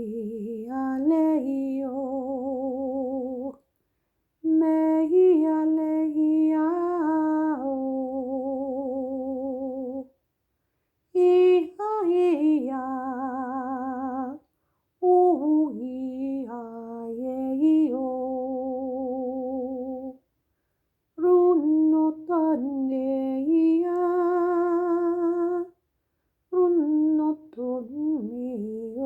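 A woman singing unaccompanied in slow phrases without clear words, each phrase gliding between notes and ending on a long held note with vibrato, with short breaths of silence between phrases.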